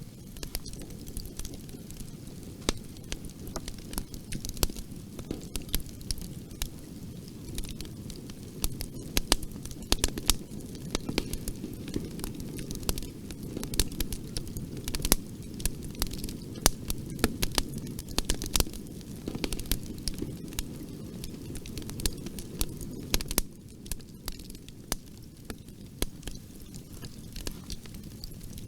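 Bonfire burning: a steady low rumble of flames, with frequent sharp, irregular crackles and pops from the burning wood.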